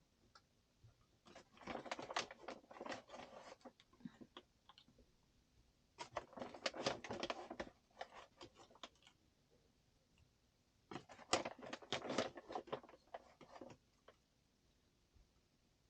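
Flour being scooped and poured from its bag with a measuring cup: three bursts of rustling and scraping, each two to three seconds long.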